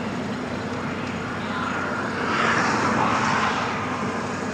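Heavy diesel engine running steadily, swelling louder for about two seconds past the middle, then easing back.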